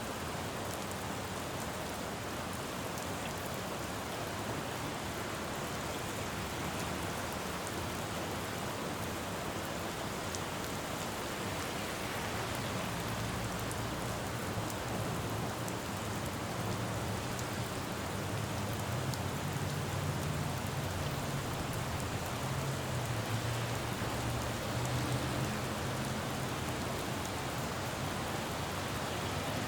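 Steady rain falling on a city road, an even hiss with scattered drops. A low rumble of road traffic builds up through the middle, is loudest a little past two-thirds of the way in and eases off near the end.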